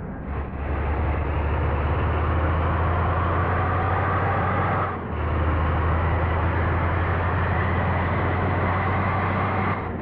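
Scania bus diesel engine running hard, with a strong low drone and a faint rising whine; the sound drops away briefly about halfway through and again near the end.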